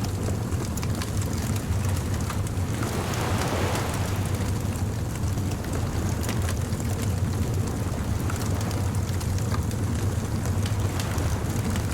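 Beach bonfire ambience: a wood fire crackling with many small snaps over a steady low rumble and hiss of surf, with a wash of noise swelling about three seconds in.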